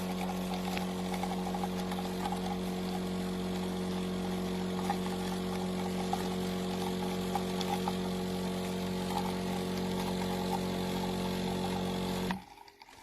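De'Longhi Magnifica automatic espresso machine running with a steady motor hum and light crackle, then stopping abruptly near the end.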